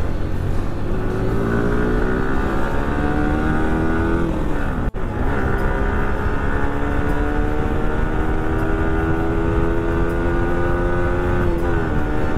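Sport motorcycle engine pulling under throttle, its pitch climbing steadily as the bike accelerates. The sound breaks off for an instant about five seconds in, then climbs slowly again and falls away near the end as the revs drop.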